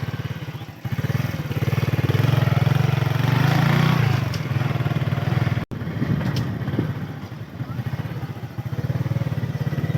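Motorcycle engine running steadily while riding, with a fast, even firing pulse. There is a brief break a little past halfway.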